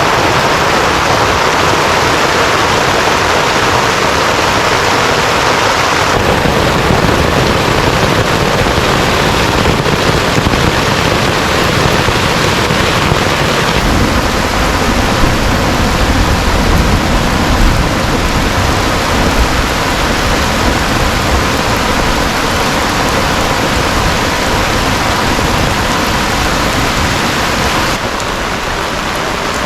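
Heavy rain falling steadily and loudly, an even dense hiss, with a deeper low rumble for several seconds around the middle.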